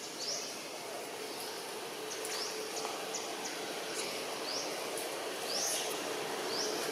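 Forest ambience: a bird repeating a short, quickly rising call about once a second, over a steady high hiss.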